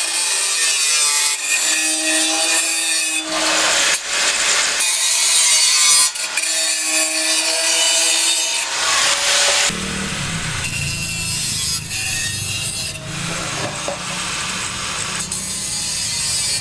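Wood being sawn and rasped with tools, in several passages that change abruptly about 3, 5 and 10 seconds in; from about 10 seconds in a lower, heavier sound joins.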